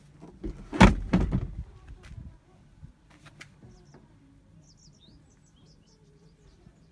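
A loud thump about a second in, followed by a short run of knocks and rattles, then a few faint high bird chirps.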